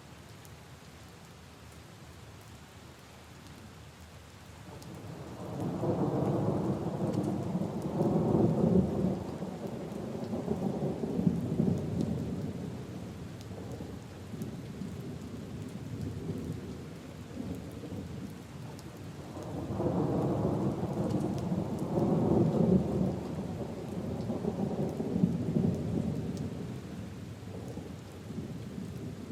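Steady rain falling on puddles and leaves, with two long rolls of thunder: one builds about five seconds in and rumbles on before fading, and a second swells up about two-thirds of the way through.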